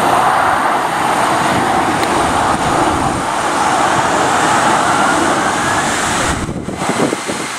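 Jet airliner engines running loud and steady, with a faint rising whine in the middle; the noise drops away abruptly near the end.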